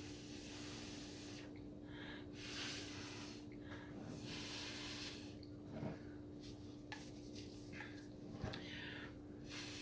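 Breath blown through a drinking straw onto wet pour paint in about half a dozen soft hissing puffs, each about a second long with short pauses between, over a faint steady hum.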